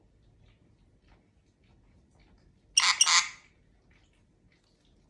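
Conure parrot giving one short, shrill squawk in two quick parts about three seconds in.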